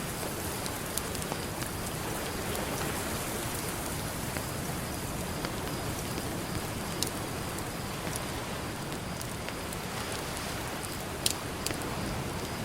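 Campfire crackling, with a few sharp pops over a steady wash of ocean surf.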